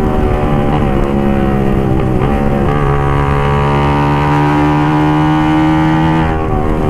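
Suzuki GSX-R150's single-cylinder engine, fitted with an aftermarket exhaust, running under way on the road. Its pitch shifts a few times in the first three seconds, then holds nearly steady for several seconds before dropping near the end, over low wind rumble.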